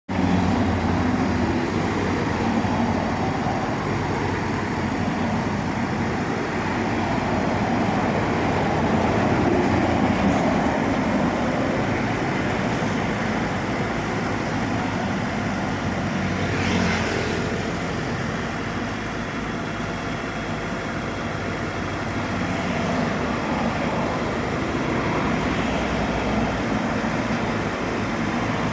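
Motor vehicle running, with steady engine hum and road noise, and a short louder rushing sound a little past halfway.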